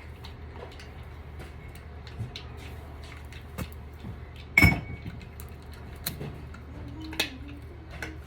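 Tools being handled and set down: scattered clicks and clinks, with one loud knock about halfway through and a couple of smaller knocks later, over a steady low hum.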